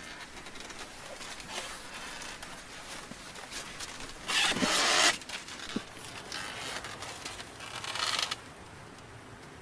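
Rough scraping and rubbing, as of wood or vines being handled and worked by hand. The loudest scrape lasts just under a second, about halfway through, with a shorter one near the end and fainter rubs in between.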